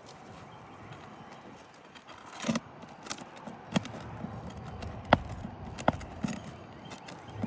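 Irregular sharp knocks and short scrapes of hand tools working asphalt roof shingles, about six knocks spread over the second half.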